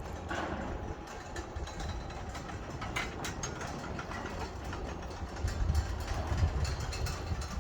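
Low, steady mechanical rumble of a vehicle in motion, with a few sharp clicks and rattles about three seconds in.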